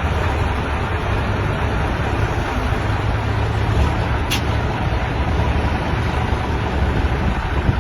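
Old truck's engine running with a steady low rumble, with one brief sharp click about halfway through.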